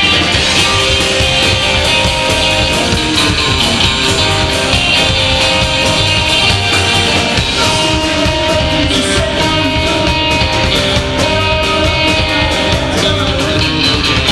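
Live rockabilly band playing, electric guitar over a steady drum beat.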